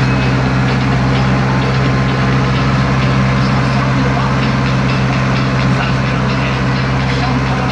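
Tractor engine heard from inside the cab, running steadily at an even speed with a low hum.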